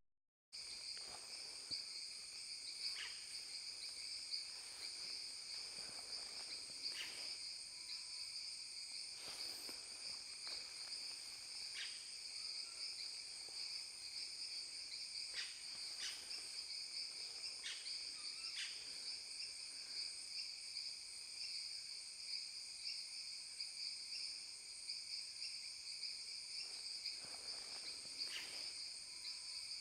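A steady chorus of insects, a continuous high-pitched buzzing layered at several pitches, with scattered faint clicks.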